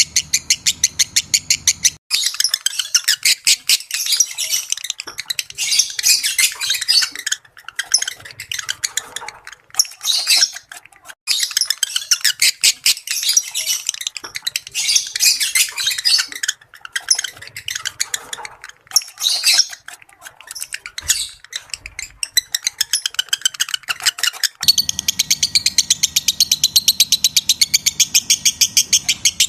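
Lovebirds calling: rapid, evenly spaced high chirps that about two seconds in give way to dense, irregular chattering, then near the end go back to the even rapid chirping. It is lure sound used to bring lovebirds into breeding condition.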